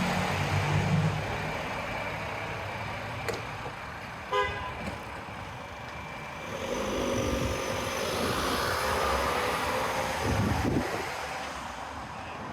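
Street traffic: motor vehicles passing at close range, with a short car-horn toot about four and a half seconds in.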